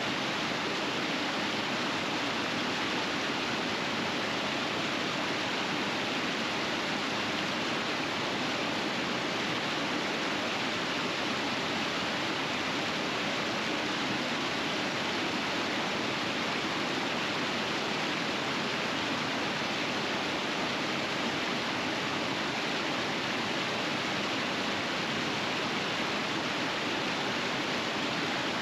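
River rapids: water rushing steadily over rocks in a winter river, an even, unbroken rush with no changes.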